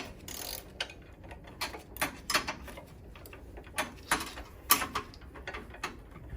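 Irregular clicks and knocks of hand tools and parts being fitted while a snow blower is assembled.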